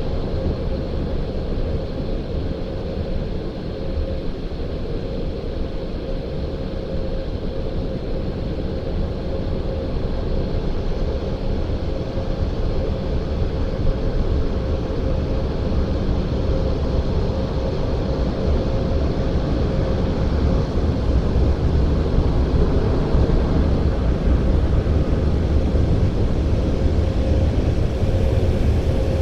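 Christ Auto-Jet C115 rollover car wash running, heard from inside the car: a steady deep rumble with a constant hum, growing slowly louder over the second half.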